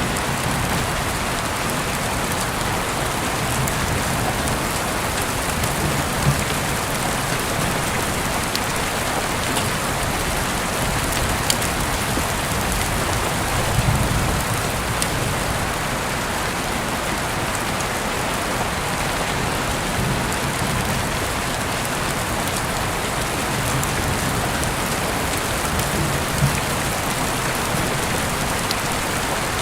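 Heavy rain falling steadily, with a few louder single drop taps.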